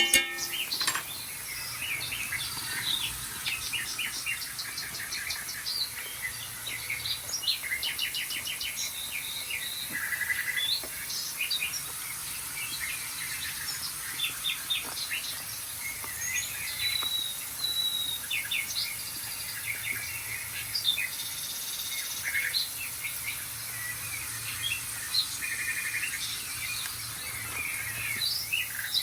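Birdsong chorus of several birds: rapid repeated chirps, buzzy trills and short whistles overlapping throughout, played from a television's bird-sounds video.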